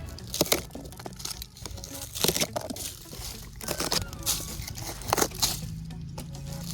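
Irregular crunching and crackling of dry wood and ground debris being moved and broken by hand, over steady background music.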